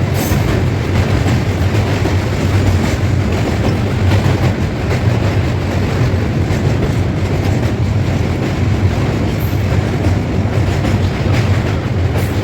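Kapotaksha Express passenger train running on the rails with a steady low rumble and wheel clatter.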